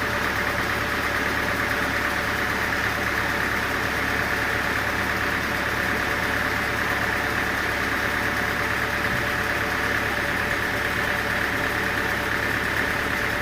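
Engine-driven machinery running steadily at an even, unchanging pitch, with no cutting or impacts standing out.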